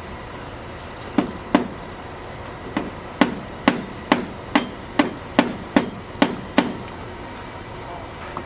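Hammer blows on a construction site: two quick strikes, then a steady run of about ten more at roughly two a second, stopping short of the end.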